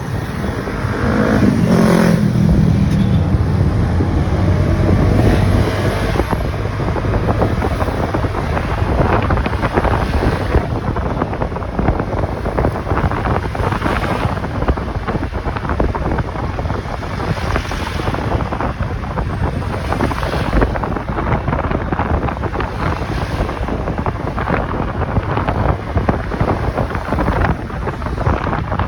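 Riding noise from a motorcycle on the move: wind rushing over the microphone with engine and road noise underneath. About two seconds in, an engine tone drops in pitch.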